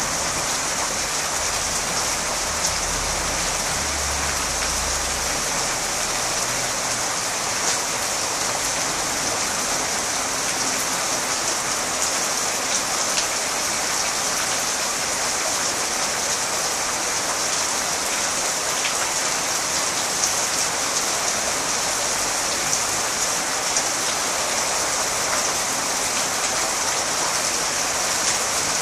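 Steady rain falling on garden plants and grass, a dense, even hiss with a few sharper drop ticks scattered through it.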